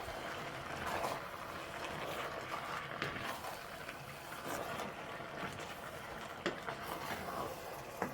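Pot of spaghetti sauce and noodles cooking uncovered, a steady bubbling hiss, with a few faint knocks.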